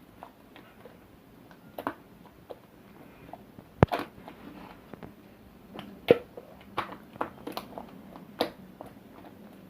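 Slime being squeezed and pressed by hand, giving irregular sticky clicks and pops, the loudest two about four and six seconds in.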